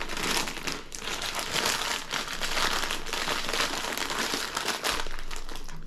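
Plastic snack packaging crinkling as it is handled, a dense run of quick crackles for several seconds.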